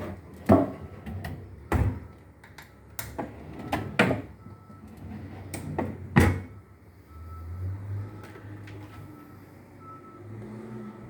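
A run of sharp indoor knocks and clunks, about six in the first six seconds, then a low steady hum.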